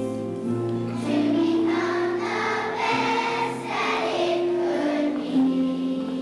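Children's choir singing with instrumental accompaniment and a held bass line.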